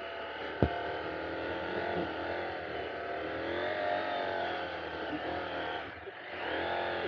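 KTM adventure motorcycle engine running under load in soft sand, its note rising and falling as the throttle is worked, with a dip in revs near the end before it picks up again. A single sharp click about half a second in.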